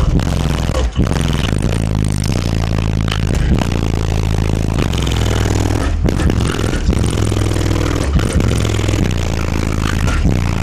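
Bass-heavy music played at very high volume through a truck's bank of twelve 15-inch subwoofers. Deep, sustained bass notes step from one pitch to another every second or two, with buzz and rattle over the top.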